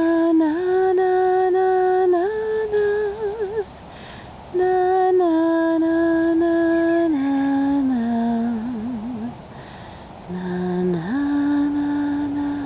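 A woman humming a slow, wordless lullaby, in three long phrases of held notes with short wavering turns between them.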